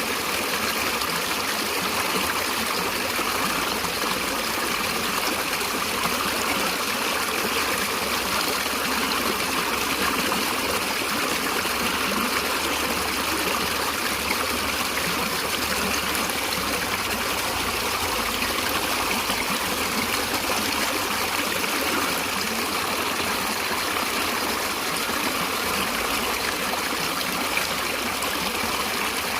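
Stream water flowing and trickling in a steady, unbroken rush.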